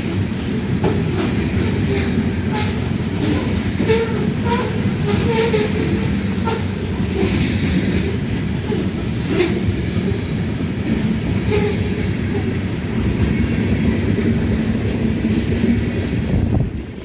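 Ferrosur mixed freight train rolling past: a steady, loud rumble of wheels on rail, with repeated clicks of the wheels over the rail joints. The sound drops off near the end.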